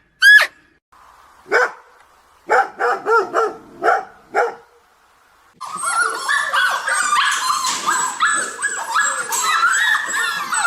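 Canine barking: a brief high call at the start, then a handful of short separate barks, and from about halfway on a dense run of many overlapping yips and yelps.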